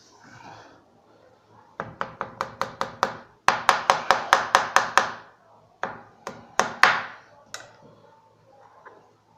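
Kitchen knife chopping on a cutting board: quick runs of sharp knocks about five or six a second, louder in the middle, then a few single chops.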